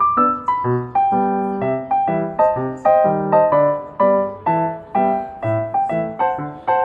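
Background piano music: a light tune of quick, separately struck notes over a lower accompaniment.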